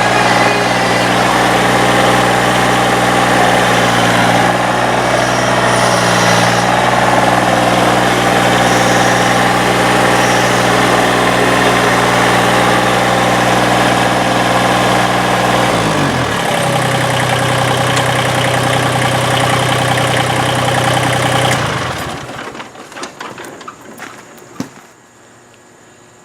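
Massey Ferguson GC1720 sub-compact tractor's diesel engine running steadily. Its speed drops about 16 seconds in, and it is shut off about 22 seconds in, leaving a few faint clicks.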